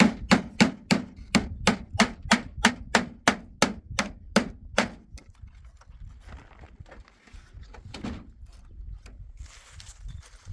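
Hammer blows on wood, a steady run of about three strikes a second that stops about five seconds in, followed by quieter handling noises and one more knock.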